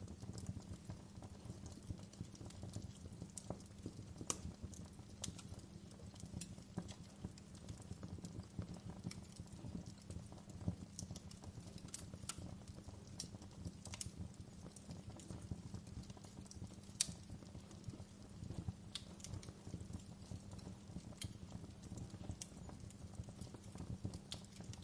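Wood fire burning in a fireplace: a steady low rumble of flames with irregular sharp crackles and pops, one louder pop about two-thirds of the way through.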